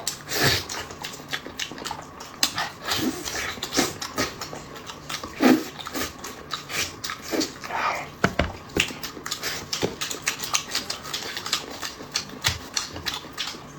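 Close-up eating sounds: wet chewing, sucking and lip smacking with many irregular clicks.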